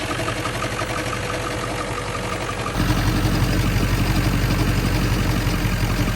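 Ford 7.3L Powerstroke V8 turbodiesel idling with a fast, steady ticking chatter. The owner calls it a rattle/knock that almost sounds like a rod knock, and he narrows it down to one of the belt-driven pulleys. The sound turns suddenly louder and deeper about three seconds in.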